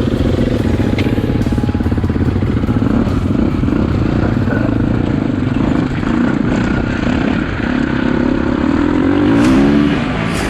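KTM EXC-F dirt bike's four-stroke single-cylinder engine running under load as it is ridden, with the revs rising and falling about nine seconds in.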